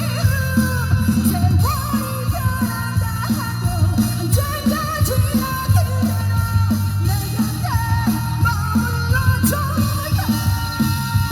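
Amplified live band playing a pop-rock song, with a steady drum beat, a heavy bass line and a melody line over it.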